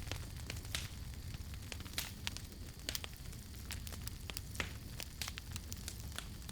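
Wood campfire crackling, with irregular sharp pops and snaps several times a second over a low steady rumble of the burning fire.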